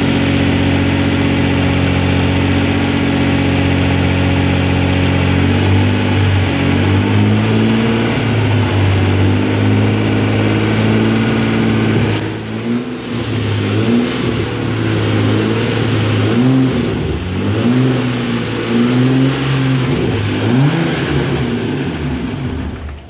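Twin-turbocharged Nissan VQ35DE 3.5-litre V6 running on its first start after a block rebuild and turbo install. It idles steadily, the idle wavers after about five seconds, and from about halfway it is revved up and down in a string of short blips. The sound cuts off just at the end.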